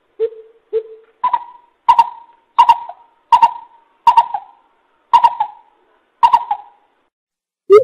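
Coucal hooting: two lower hoots, then a series of higher hoots about every 0.7 s, each with a sharp clicky start, slowing slightly toward the end.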